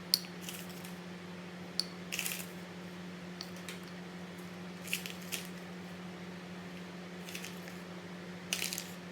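Scattered light clicks and short scraping rustles of a scoop and container as protein powder is added to a portable blender cup, over a steady low hum.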